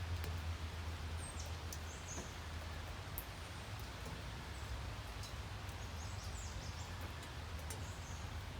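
Steady rain falling: an even hiss with scattered sharp drip ticks, over a steady low hum. A few faint, short bird chirps sound high up now and then.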